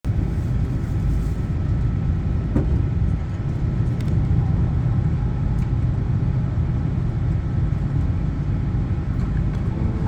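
Cabin running noise of an E2 series 1000 Shinkansen train under way: a steady low rumble, with two light clicks a few seconds in.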